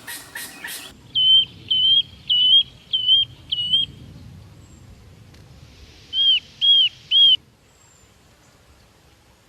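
Songbird calling: after a second of harsh, rasping notes comes a string of five short, clear whistled notes about two-thirds of a second apart. After a pause there are three more such notes.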